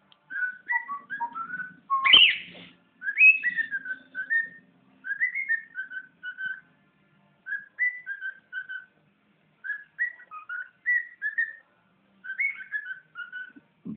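Pet bird whistling: runs of short, clear whistled notes in groups with brief pauses between, and a louder rising whistle about two seconds in.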